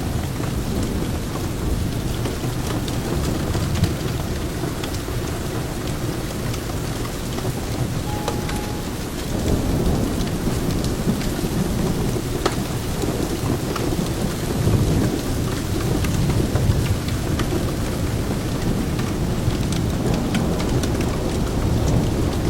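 Steady rain mixed with the crackle of a wood fire in a fireplace, sharp little pops scattered through it. A deep low rumble underneath swells about ten seconds in.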